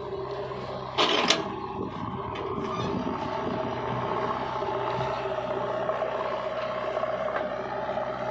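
Diesel engine of a JCB 3DX backhoe loader running steadily at work, with a short loud scrape and clatter about a second in.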